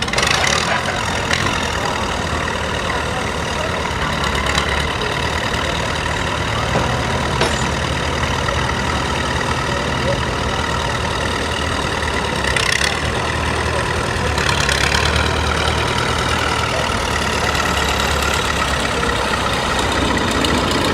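Antique tractor engine running steadily at the pull, with a couple of brief louder surges partway through.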